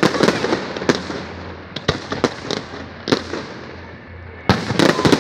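Aerial fireworks shells bursting in sharp bangs at irregular intervals, each trailing an echo, with a rapid cluster of bangs near the end.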